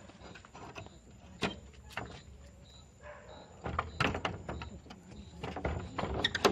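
A door bolt being worked to try to open it: scattered metal clicks, then two bursts of rattling and clunking, the loudest knock near the end.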